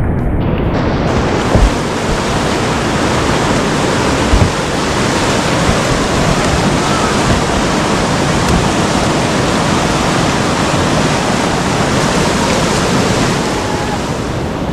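Loud, steady rush of whitewater river rapids, with a couple of short low thumps in the first few seconds.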